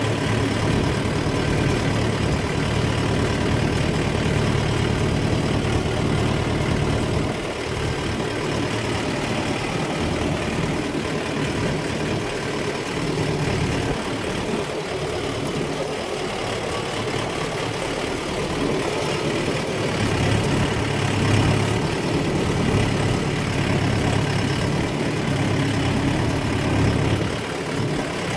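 Tractor engine running steadily with a deep hum. It is stronger for the first seven seconds and again from about twenty to twenty-seven seconds.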